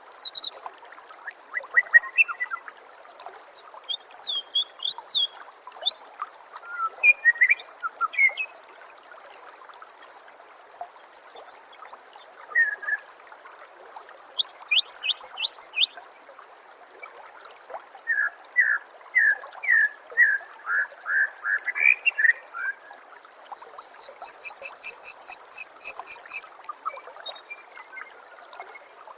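White-rumped shama (murai batu) song: a run of varied short whistled notes, chirps and quick note series, with a fast rattling series about three-quarters of the way through. Steady trickling water runs underneath.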